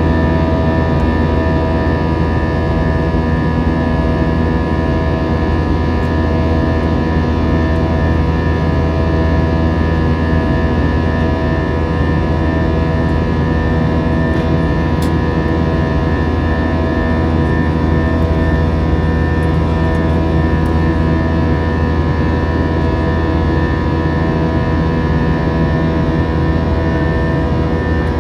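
Airbus A321 jet engines and airflow heard from inside the passenger cabin in flight. The sound is a steady, loud rumble with several held tones, some of which pulse in a slow beat.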